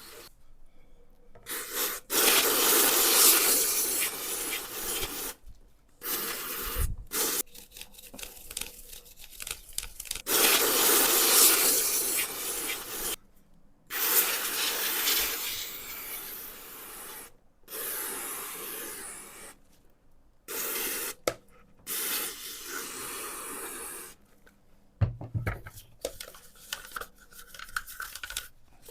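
Mini fan blade being scrubbed clean: rough rubbing and hissing noise in bursts of one to four seconds, each starting and stopping abruptly.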